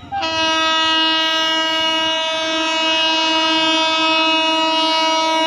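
Indian Railways electric locomotive's horn sounding one long, steady blast at a single pitch, starting just after the beginning.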